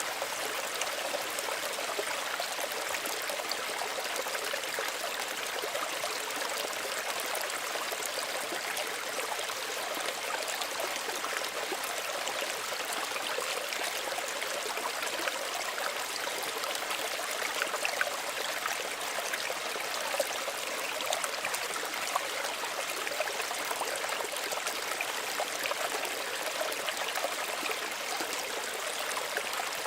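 Small stream running and trickling over stones, a steady rush of water with small splashes and bubbling, a few slightly louder splashes near the middle.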